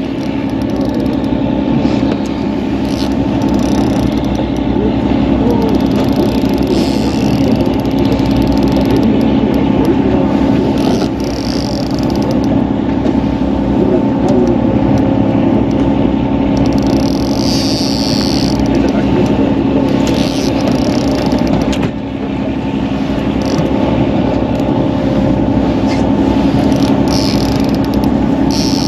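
Fishing boat's engine running steadily, a constant low hum, with a few short higher-pitched sounds over it.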